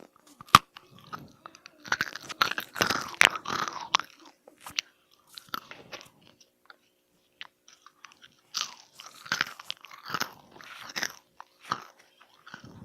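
Crisp food crunching close to the microphone, in two bouts of dense crackling about two seconds in and again about eight and a half seconds in. A sharp click comes about half a second in, and scattered small crackles fall between the bouts.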